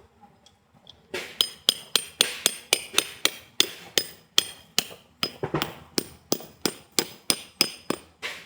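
A hammer striking metal about three times a second, each blow ringing briefly, as when driving a tent peg into the ground.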